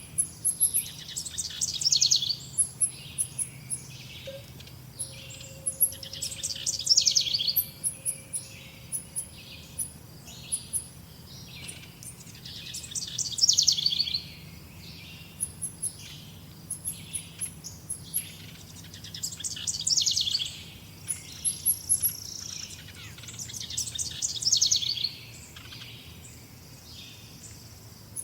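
Songbirds singing: one repeats a rapid trilled phrase of about a second and a half every five to six seconds, while short high chirps run throughout. A steady low hum sits underneath.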